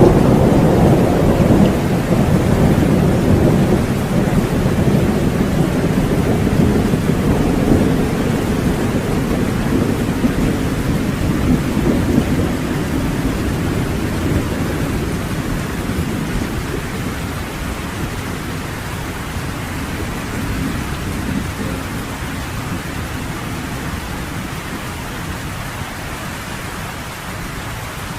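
Thunder rolling over steady rain in a thunderstorm. The rumble is loudest at the start and slowly dies away, leaving the even rain.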